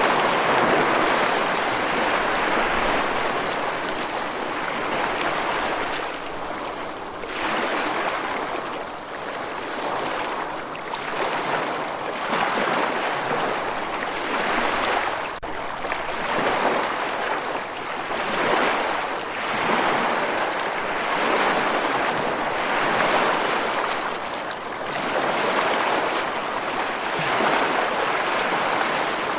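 Running water rushing and splashing in a continuous wash that swells and eases every second or two.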